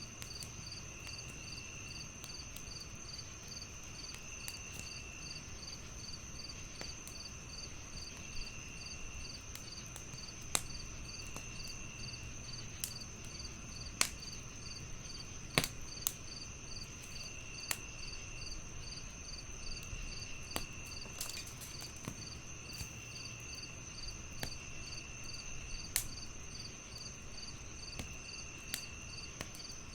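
Crickets chirping steadily, one in a fast pulsing chirp and another in short trills repeating every couple of seconds, over a wood fire crackling with irregular sharp pops. The loudest pops come around the middle.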